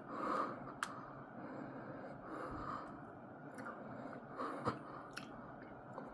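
Close-up chewing of a mouthful of chocolate caramel cookie dessert: soft, irregular wet mouth sounds, with a few sharp clicks.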